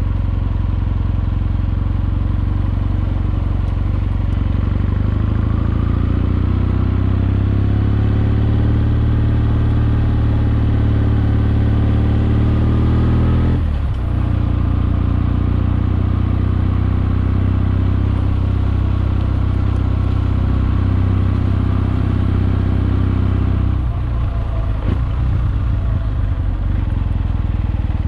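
Kawasaki W650's air-cooled parallel-twin engine, fitted with a Wyvern Classic aftermarket exhaust, pulling under load with its pitch climbing. About halfway through the pitch drops sharply at a gear change, and the engine then runs steadily. The engine note changes again near the end.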